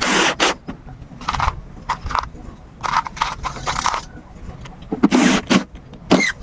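A series of irregular, short scraping strokes on a hard surface, some brief and some lasting about half a second.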